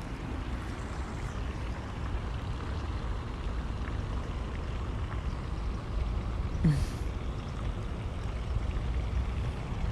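Steady rush of falling water from a pond's waterfall and fountain, over a low wind rumble on the microphone. A short sound falling in pitch comes about seven seconds in.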